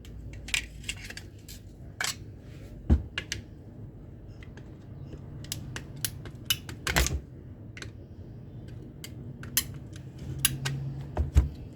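Scattered clicks, taps and small metallic knocks of tools and parts being handled while an angle grinder is taken apart, with a few louder knocks around three, seven and eleven seconds in.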